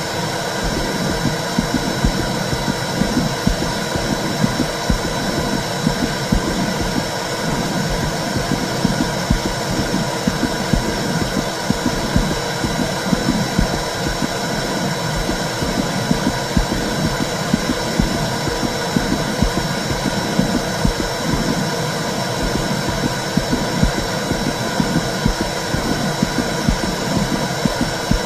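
Womb sound for soothing a baby: a steady low rumbling whoosh with a constant uneven pulsing in the low end.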